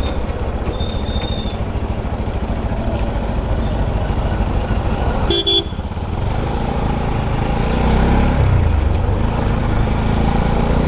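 Motorcycle riding on the road with steady engine and wind rumble. A short high beep sounds about a second in, and a louder vehicle horn toots briefly about five and a half seconds in.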